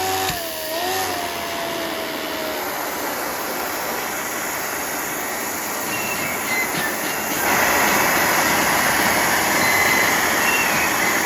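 A machine running with a steady rushing, whirring noise. A tone slides down in pitch over the first two seconds or so, and the noise grows louder about seven and a half seconds in.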